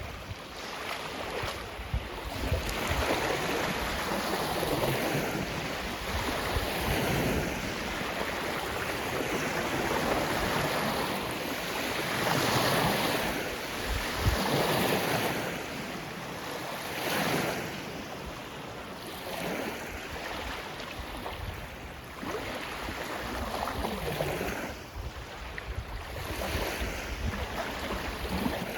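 Lake waves washing onto the shore with wind gusting, the wash rising and falling every few seconds, and wind rumbling on the microphone.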